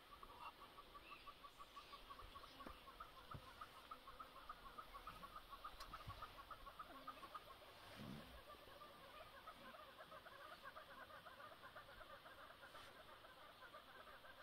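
Faint, fast, steady clucking chatter of a bird, several clucks a second without a break, with a short low sound about eight seconds in.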